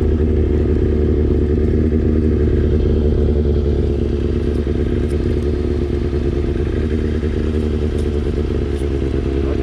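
Motorcycle engine running steadily at an even, unchanging speed.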